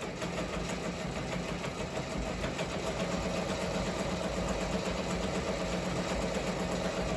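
Ricoma MT-1501 multi-needle embroidery machine starting up and stitching at a steady, rapid rate, running on a design with its rotary hook timing freshly reset.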